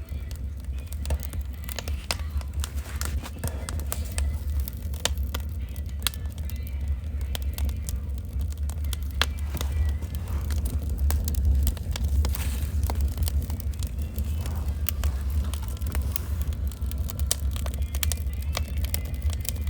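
Wood fire crackling and popping with irregular sharp snaps over a steady low rumble.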